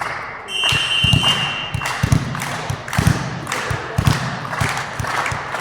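Repeated dull thuds, irregular and about one or two a second, typical of balls striking the floor and hands in a sports hall, over a haze of crowd and player noise. A shrill whistle blast starts about half a second in and lasts just over a second.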